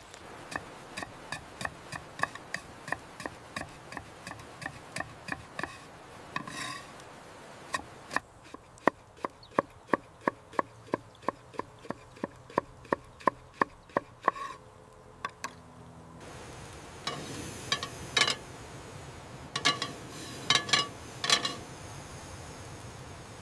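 A knife chopping on a wooden cutting board: two runs of quick, even strokes, about three a second, with a short pause between, then a few louder, spaced knocks near the end.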